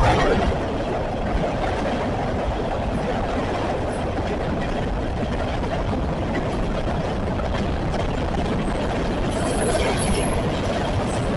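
Westbound CSX train rolling past at track side: a steady rumble of cars on the rails, with scattered faint clicks and a brief high squeal about ten seconds in.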